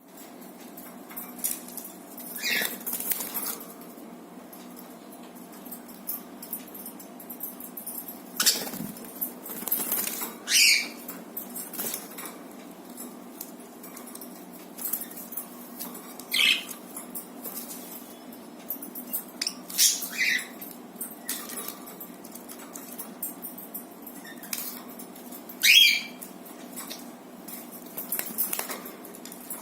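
Budgerigars giving short, scattered chirps about every few seconds, with clicks and rustles between them, over a steady low background hum.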